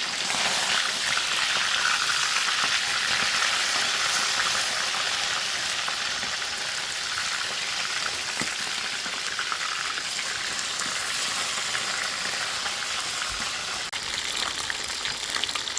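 Pieces of fish frying in hot oil: a steady sizzle, a little louder in the first few seconds.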